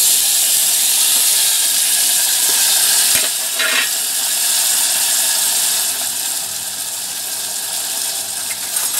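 Chopped onion and tomato sizzling in hot fat with cumin in a steel pressure cooker: a loud, even frying hiss that eases a little after about six seconds. A single metal clink comes about three seconds in.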